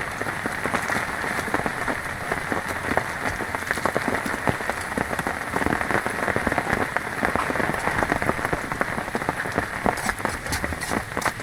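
Heavy rain falling steadily, a dense patter of drops striking surfaces close by.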